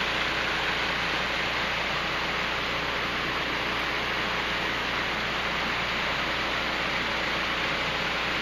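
Creek water rushing steadily, heard from high above, with a faint steady low hum underneath.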